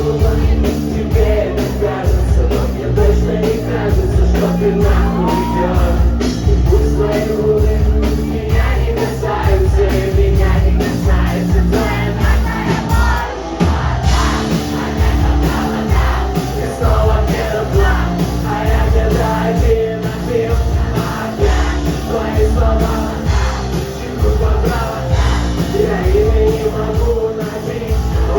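Rock band playing loudly with a steady drum beat and guitars, a voice singing and yelling over the music.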